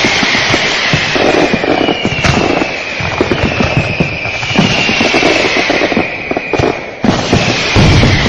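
Fireworks going off in a dense barrage: rapid crackling bangs, with several whistling fireworks each sliding slowly down in pitch. A heavier low boom comes near the end.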